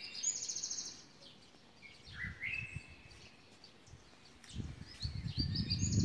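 Small birds twittering: a quick high trill at the start, a few lower chirps about two seconds in, and more high chirps near the end. From about four and a half seconds a low rumble builds and becomes the loudest sound.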